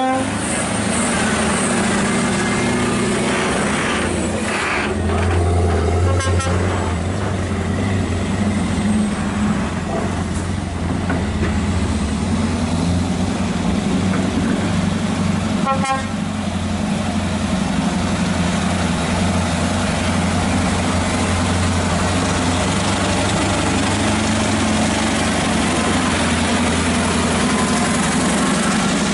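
Heavy truck's diesel engine running steadily with a deep, even hum, joined a few times by brief high-pitched tones.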